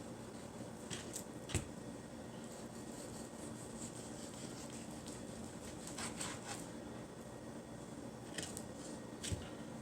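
Thick-cut bacon being cut into pieces: a few scattered clicks and knocks of the blade, with a clear thump about one and a half seconds in and another near the end, over a steady low hum.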